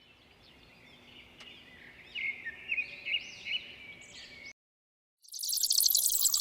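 A bird singing: a run of chirps and quick arching whistled notes, louder in the middle, cutting off sharply about two thirds of the way in. After a short silence a loud, dense, high-pitched hiss with a rapid crackle begins near the end.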